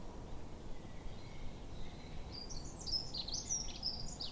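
A songbird singing a quick warbling phrase of high notes that rise and fall, starting a little past halfway, over a steady low outdoor background rumble.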